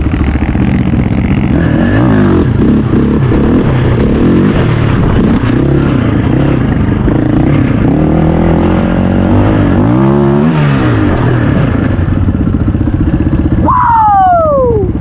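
Off-road vehicle engine running hard over sand, its pitch rising and falling as the throttle opens and closes. Near the end a higher whine drops sharply in pitch.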